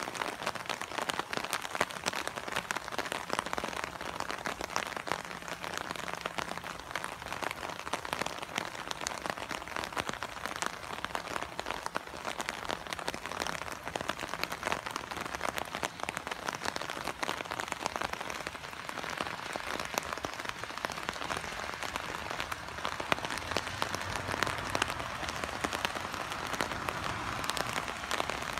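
Moderate rain, with a dense, irregular patter of drops striking the umbrella fabric held just over the microphone.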